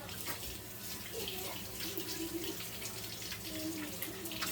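Kitchen sink faucet running, the water splashing steadily as hands are washed under it.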